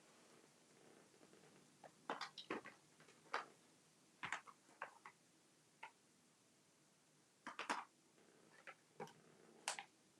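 Scattered light clicks and taps of stamp sets and their plastic cases being handled and sorted through on a craft table, some in quick clusters of two or three, with near silence between.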